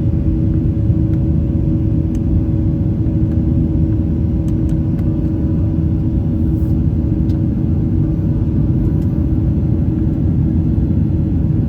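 Steady cabin noise inside a Boeing 737-800 airliner: a constant low rumble from its CFM56 turbofan engines and airflow, with a steady hum and a few faint ticks.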